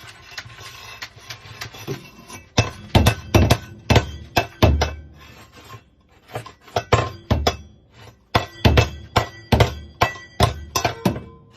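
A run of irregular sharp knocks and taps, some with a brief clinking ring, coming up to about two a second in places.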